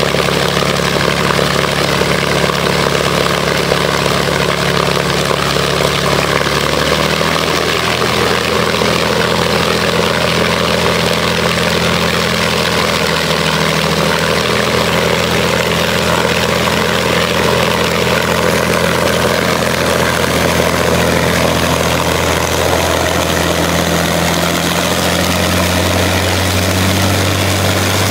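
Rolls-Royce Merlin 500-29, a 27-litre supercharged V12 aero engine, running steadily on a ground test run. Its pitch shifts slightly about a quarter of the way in and again near the end as the engine speed changes.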